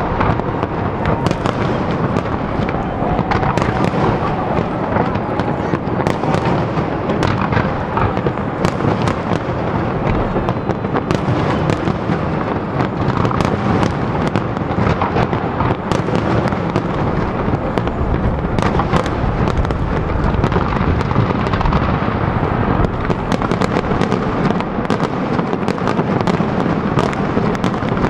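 Fireworks display: a continuous barrage of aerial shell bursts and crackling, with many sharp bangs following one another closely throughout.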